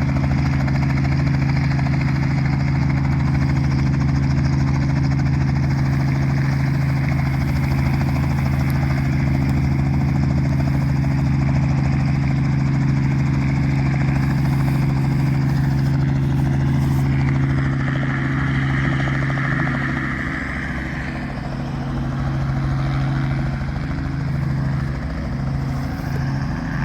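Helicopter running close by with a loud, steady engine-and-rotor hum. About three quarters of the way through it dips and changes, and near the end the low hum begins to pulse.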